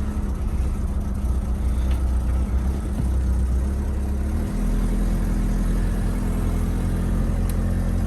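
1980 Toyota Celica's engine running at low speed while the car is manoeuvred, with a steady low hum whose pitch shifts about halfway through.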